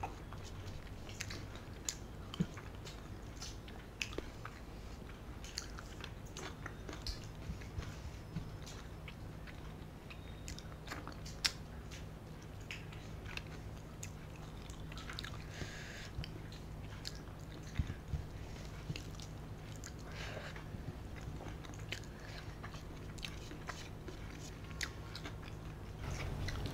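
Close-miked chewing of rice and curry eaten by hand, with many short soft mouth clicks scattered throughout.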